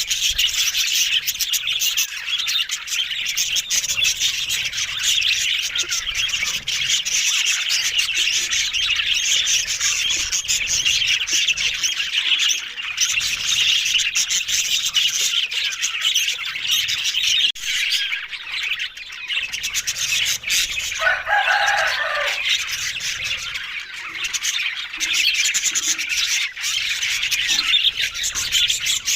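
Budgerigars chattering and squawking without a break, a dense mass of high, fast calls, with one short, lower call standing out about two-thirds of the way through.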